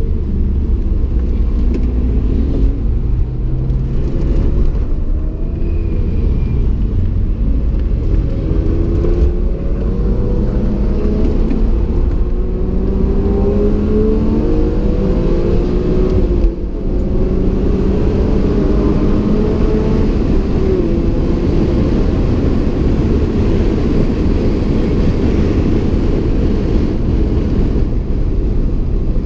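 1994 BMW M3 E36's 3.0-litre straight-six engine working hard under track driving, heard from inside the cabin with road and tyre noise. The engine pitch rises several times through the middle as the car accelerates, with a brief drop about two-thirds of the way through.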